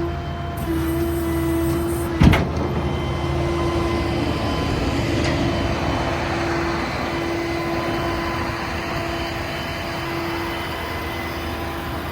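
Ford F-550 rollback tow truck running, with a steady whine over the engine rumble and one sharp clunk about two seconds in.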